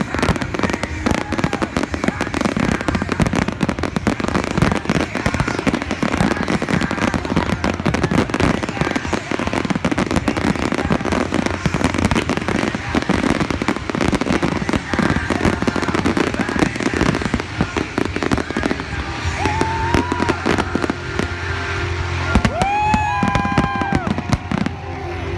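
Fireworks display: a dense, continuous crackling of bursting fireworks, with a few pitched rising-and-falling whistles over it in the last few seconds.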